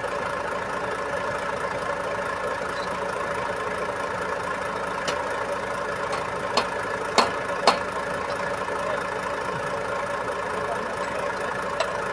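Diesel engine of an Iveco Trakker boom truck running steadily at low revs. Several sharp knocks come over it around the middle, two close together, and one more near the end.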